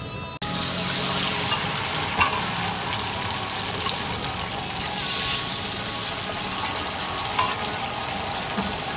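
Mussels in egg batter frying in hot oil in a cast-iron pan: a steady sizzle with scattered spattering pops and a louder surge of hissing about five seconds in.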